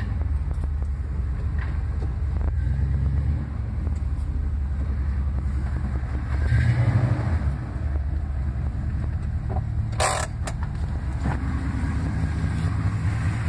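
Carbureted 5.2 L Magnum V8 idling steadily, its sound swelling briefly about halfway through. A short burst of sharp clicks about ten seconds in.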